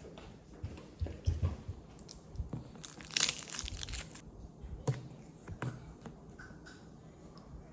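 Packaging crinkling and tearing for about a second, among scattered light knocks and clicks.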